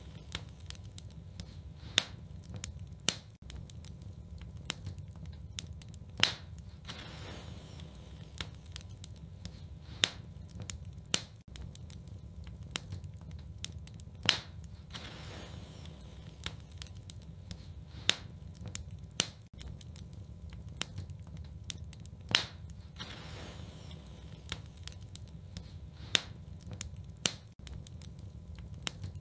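Wood fire burning in a fireplace, crackling, with sharp pops every second or two over a steady low rumble of the flames.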